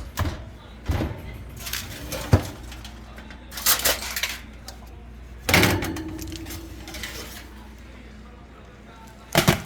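Dishes and cutlery clinking and knocking: a handful of separate sharp strikes spread out with pauses between them, one about halfway through ringing on briefly like struck crockery.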